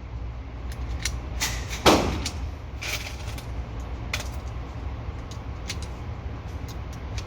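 Indoor shooting range ambience: a steady low hum with scattered sharp knocks and one louder bang about two seconds in that rings on, in keeping with shots from other lanes.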